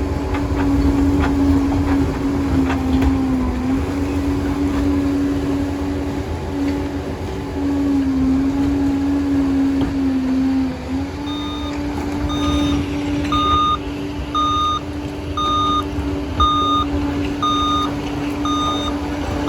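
Bulldozer diesel engine running under load, its pitch sagging briefly a few times. Past the middle a reversing alarm starts beeping about once a second as the machine backs up.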